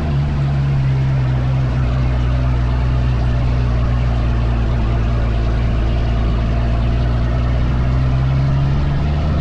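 Dune buggy engine running at a steady low pitch, its note holding nearly constant throughout.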